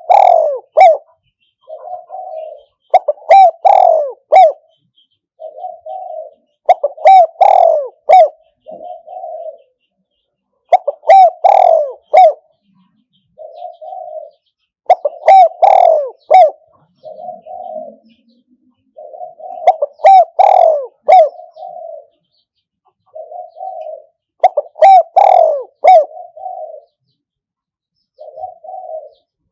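Spotted dove cooing: phrases of loud coos, each followed by a few softer coos, repeating about every four seconds.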